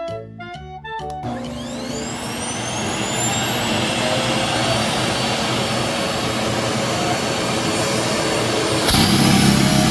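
A vacuum cleaner is switched on about a second in, and its motor whine rises in pitch as it spins up, then runs steadily. Near the end the suction noise gets louder and rougher for about a second.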